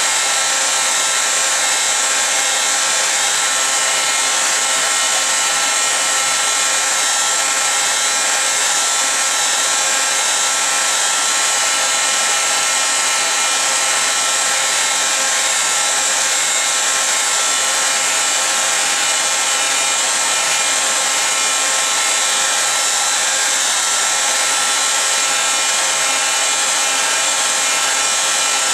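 A fan-driven blower running steadily: an even whoosh of air with a few faint steady whining tones through it.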